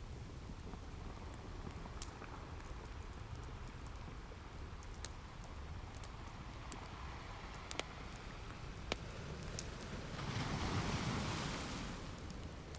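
Wood fire crackling, with single sharp pops every second or so, over a low steady wash of ocean surf; a wave surges up and falls away near the end.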